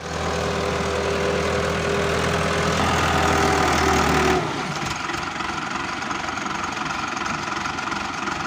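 Tractor diesel engine running. About four seconds in the sound drops in level and changes to a rapid, even chugging idle.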